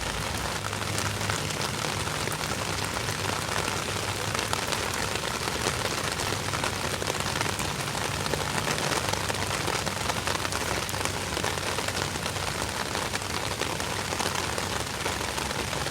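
Steady rain falling on surfaces, with many fine drop patters over an even rushing hiss.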